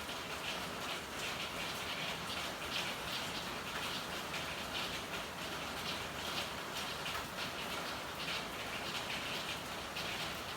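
Steady rain falling, with a constant hiss and close, uneven patter of drops splashing and dripping onto hard surfaces.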